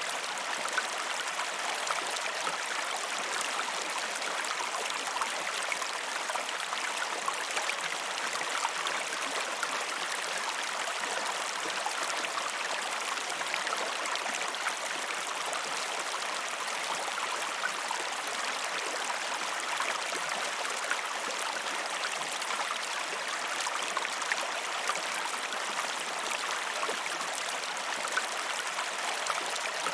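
A river running steadily, its water rushing and splashing over rocks in a constant hiss with small splashes scattered through it.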